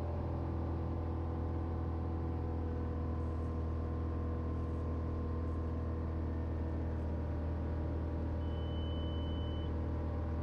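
Steady drone of a 1968 Cessna 182L Skylane's six-cylinder O-470 engine and propeller at reduced cruise power, about 24 inches and 2350 RPM. A brief thin high tone sounds near the end.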